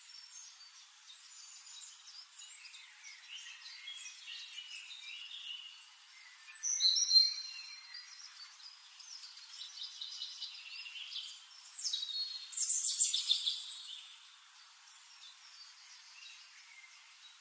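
Birds chirping and calling, a run of short high chirps with a louder, falling call about seven seconds in and another burst of calls near thirteen seconds.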